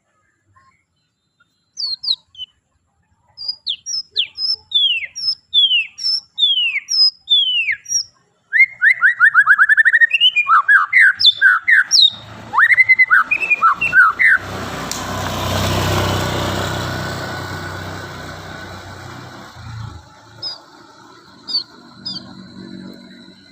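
White-rumped shama (murai batu) singing: a run of loud descending whistled notes, then a rapid trill and rich varied phrases. About halfway through, a rushing noise swells and fades over several seconds, followed by a few short high chirps.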